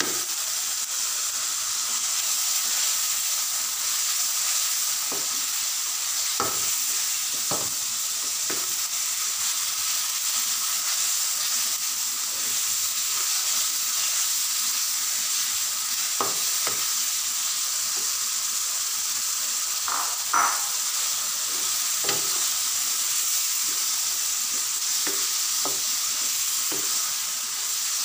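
Minced mutton frying in oil and tomato masala in a non-stick pan: a steady sizzle, with a spatula stirring the mince and knocking against the pan now and then.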